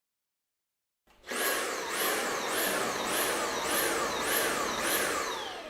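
Dyson V7/V8 cordless stick vacuum motor starting about a second in and pulsing, its whine rising and falling in pitch about every 0.6 s. This pulsing is the designed warning that something is blocking the airflow through the machine. Near the end the motor winds down with a falling whine.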